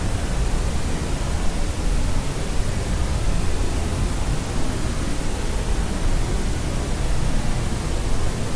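Steady white noise for sleep: an even, unbroken rushing hiss with most of its weight in the low end, unchanging throughout.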